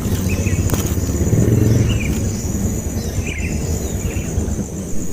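Short, high chirps from a baby bird, one every second or so, over a steady low rumble. A thin, steady high-pitched whine runs underneath.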